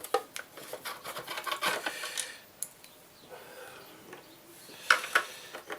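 Plastic shell of a Sega Dreamcast console being handled and pulled apart: rubbing and scraping of plastic with small clicks for the first couple of seconds, then a couple of sharp clicks about five seconds in.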